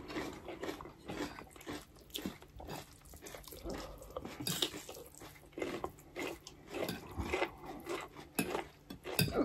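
Close-up eating sounds: people chewing mouthfuls of spicy instant noodles, with irregular wet mouth noises and short clicks of forks and spoons on the noodles and plates.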